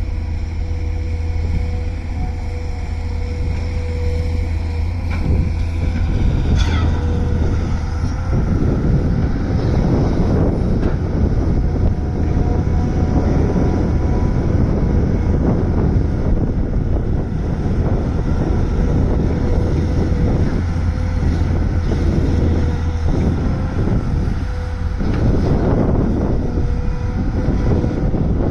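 Volvo excavator's diesel engine and hydraulics working under load while loading a dump truck: a steady low hum with constant tones above it. The sound turns louder and rougher from about eight seconds in until near the end, with a brief rising whine about six seconds in.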